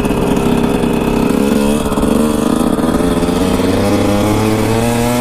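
Dirt bike engine running at a fairly steady speed, its pitch wavering slightly up and down.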